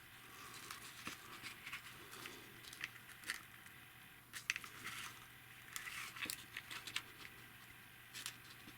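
Faint rustling and light, scattered clicks of card and paper parts being handled and adjusted by hand.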